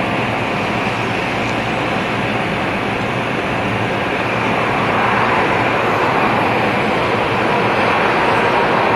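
Jet airliner engines running, a steady rushing noise with a faint whine in it, growing a little louder about halfway through.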